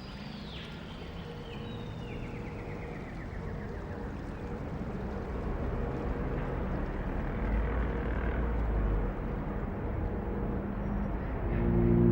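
Outdoor nature ambience: a steady rushing noise that grows gradually louder, with a bird's call at the start and a descending bird trill soon after. Deep sustained musical tones come in near the end.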